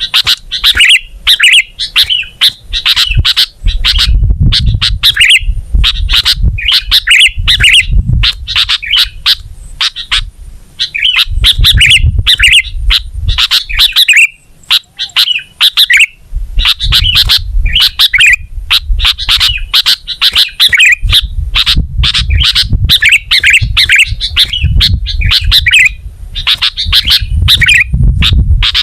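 Sooty-headed bulbul singing a loud, fast chattering song of short bubbly notes in quick bursts, with a low rumble coming and going underneath.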